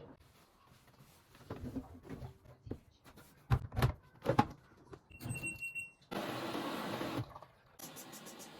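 Household handling sounds: a few sharp knocks and clatters, a short high electronic beep, then a steady rushing noise for about two seconds that cuts off.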